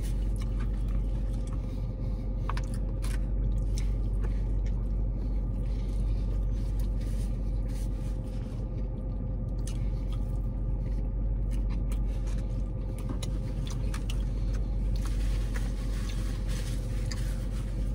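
A man biting and chewing a burger, with faint crinkles of its paper wrapper, over a steady low hum inside a parked car.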